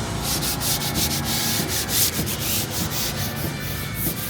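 Paint scraper being worked by hand over a surface to strip it before painting, in quick repeated strokes of about three or four a second.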